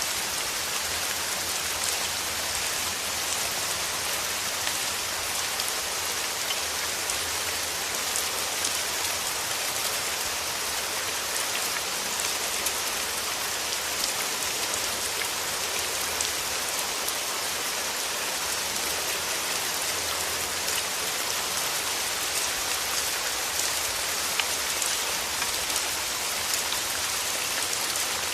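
Steady rain falling through forest trees, an even hiss of rainfall with many small drop ticks pattering on leaves.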